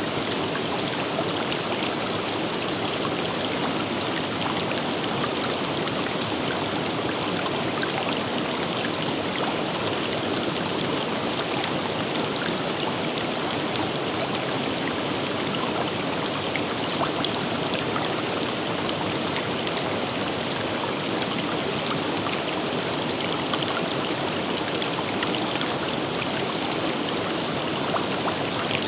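A forest river flowing steadily over rocks, with small splashes and trickles scattered through a constant rush of water.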